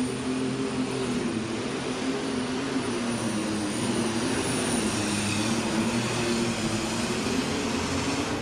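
Alcohol-burning super stock pulling tractor engine running flat out under load as it drags the weight sled down the track: a steady, loud engine noise with a thin high whine on top, easing off just as the run ends.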